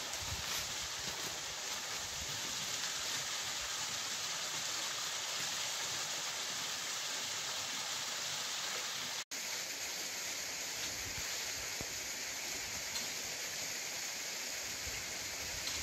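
Steady rush of a waterfall pouring over rocks, an even wash of water noise that breaks off for an instant about nine seconds in.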